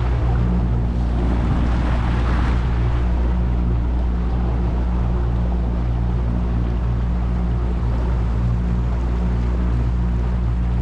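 Boat engine running at a steady drone, with wind and water noise over it.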